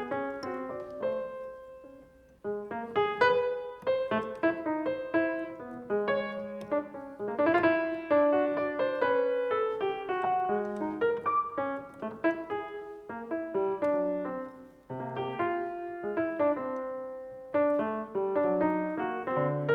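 Solo piano playing, with many overlapping notes in quick runs and chords. The sound thins out almost to nothing about two seconds in, and briefly again near fifteen seconds, before new phrases start.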